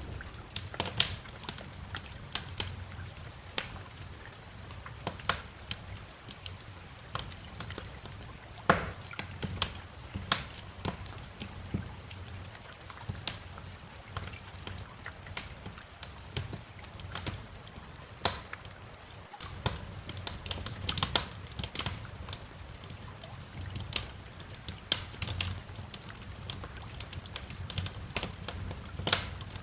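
Wood fire crackling in a fireplace: irregular sharp pops and snaps over a low steady rumble, breaking off for an instant about nineteen seconds in.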